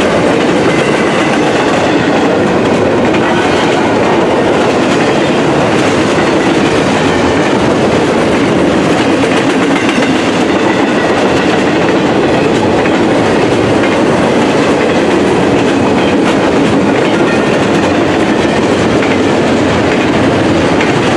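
Double-stack container well cars of a freight train rolling past close by: a loud, steady noise of steel wheels running on the rails.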